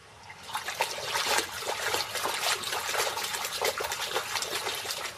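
Shallow river water splashing and running, starting about half a second in, with many irregular splashes.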